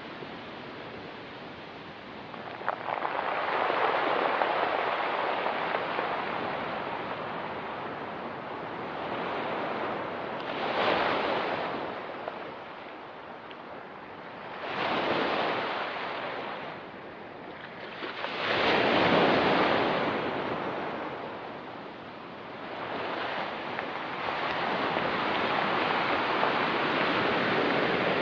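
Ocean waves breaking and washing up a rocky beach. The surf swells and falls back every few seconds, with the strongest surges near the middle and about two-thirds of the way through.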